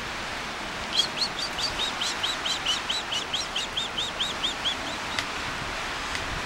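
A small bird calling: a steady run of about twenty clear, high, evenly spaced notes, about five a second, lasting some four seconds, over a steady outdoor hiss.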